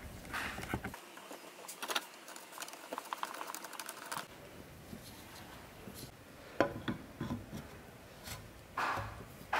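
Light clicks, taps and small rattles of hard parts being handled, with a few sharper knocks about two-thirds of the way through and near the end.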